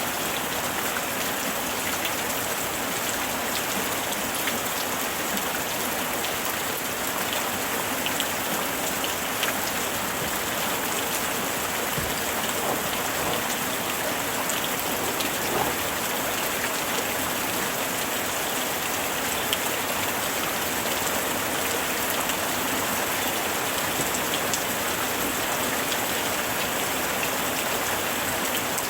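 Steady summer rain falling, a dense even hiss with scattered individual drop ticks.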